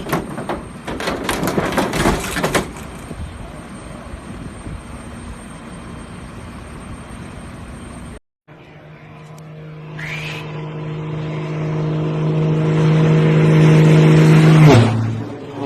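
An aircraft approaching and passing low overhead: a steady humming drone with several tones and a rushing noise, growing louder for about five seconds, then dropping in pitch as it goes by near the end. Before it there are a few sharp knocks over a rushing noise.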